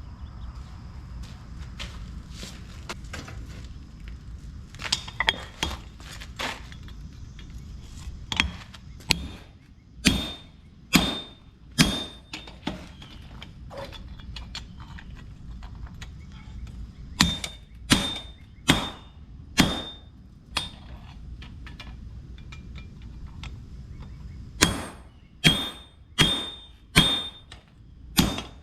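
Hand hammer striking hot steel on an anvil in runs of a few blows, each run separated by a pause of several seconds. Some strikes carry a short metallic ring. A steady low rumble lies underneath.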